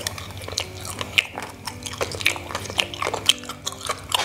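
Close-miked chewing of a soft, chewy kicang (glutinous rice dumpling), wet mouth clicks and smacks a few times a second, over faint background music.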